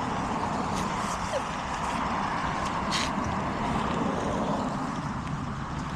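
Steady traffic noise from a busy road, passing vehicles swelling and fading, with a few short clicks about a second in and again near the middle.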